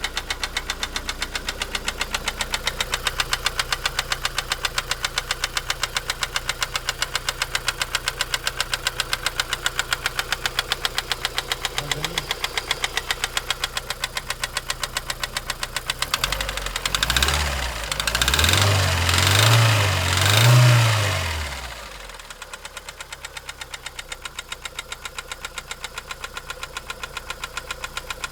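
Opel Vectra B engine idling with a rapid, regular knock from inside the engine, a knock whose cause the owner does not know. Past the middle the engine is revved three times, its pitch rising and falling, then it drops back to idle with the knock still there.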